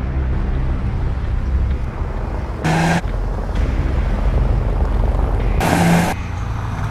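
Honda Civic Type R's turbocharged four-cylinder engine running steadily, with two short loud rushes of noise, about three seconds in and again near six seconds.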